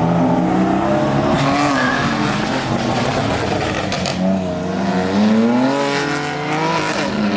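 Performance car engines revving, the pitch climbing and dropping several times.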